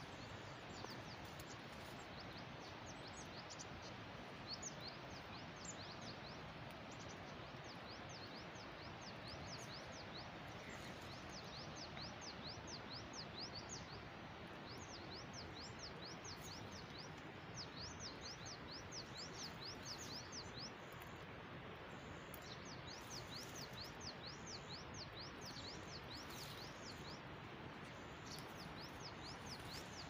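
Birds chirping in quick runs of short, high notes, coming in several bouts, over a steady outdoor hiss.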